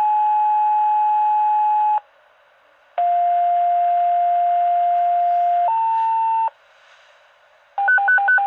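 Fire dispatch alerting tones heard over a radio scanner, which page the engine company before the call goes out. A steady tone holds for about two seconds. After a pause a lower steady tone follows, stepping to a slightly higher one, and near the end a rapid beeping alternates between two pitches at about five beeps a second.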